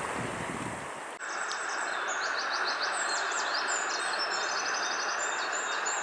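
Wind buffeting the microphone for about a second, then an abrupt change to the steady rush of a river with a small songbird singing quick chirps and trills over it.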